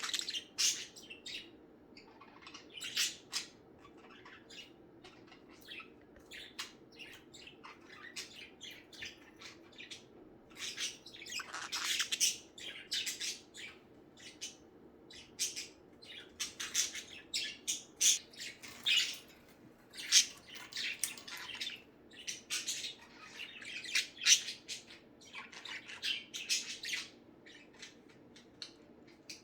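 Several budgerigars chattering and chirping, with many short, scratchy calls in irregular bursts and occasional louder squawks.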